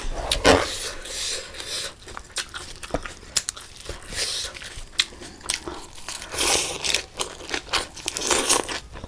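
Close-miked eating sounds: sharp crunching bites and clicks, with several longer hissy slurps or sucks every second or two.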